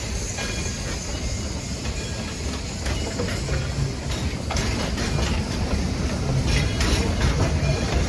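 Narrow-gauge train running on the rails with a steady low rumble, and a run of sharp clacks from about halfway in as it grows a little louder.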